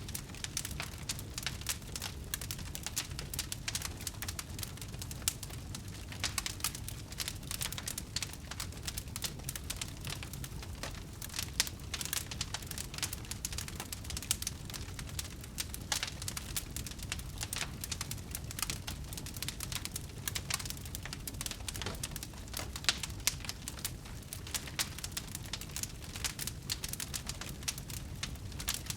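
Wood fire burning, with dense, irregular crackling and popping over a steady low rumble of the flames.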